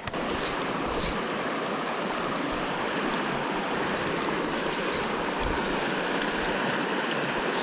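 Mountain creek water rushing steadily over rocks, with a few short clicks about half a second, a second and five seconds in.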